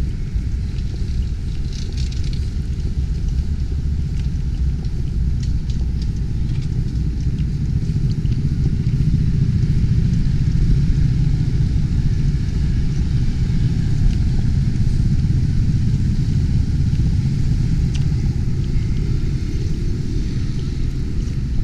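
A steady low rumble that swells a little about eight seconds in, with a faint hiss and a few light ticks above it.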